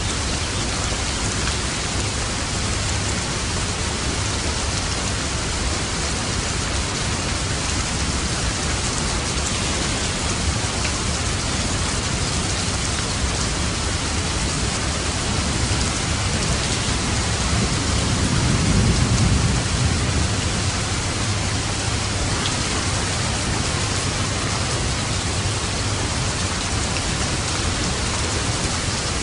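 Steady rain falling in a storm, with a low rumble of thunder that swells and fades about two-thirds of the way through.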